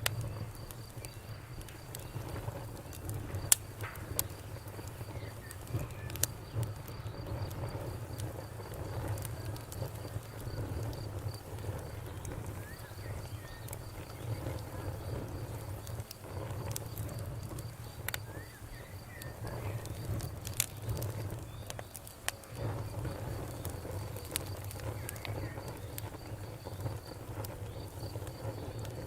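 Campfire crackling, with sharp pops every few seconds over a low, steady rumble of the flames. A cricket chirps in a fast, even pulse behind it.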